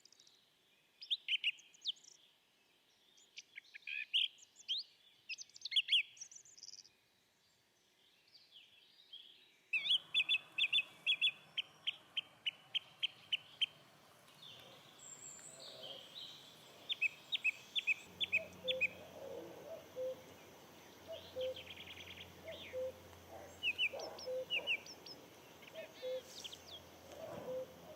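Wild birds singing and calling: scattered high chirps, then after an abrupt change in the background about ten seconds in, quick runs of repeated notes, and a low note repeating about once a second through the second half.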